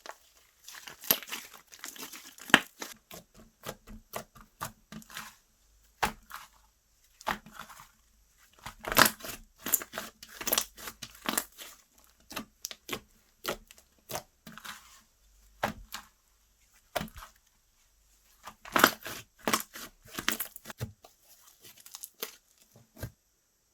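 Hands stretching, pressing and folding slime: irregular sticky pops, clicks and tearing sounds in uneven clusters, with a short lull about two-thirds of the way through.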